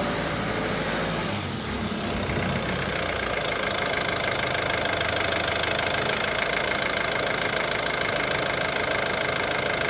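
2008 Ford Focus 2.0 TDCi diesel engine idling steadily, with a steady whine over it. The low end dips briefly about a second and a half in.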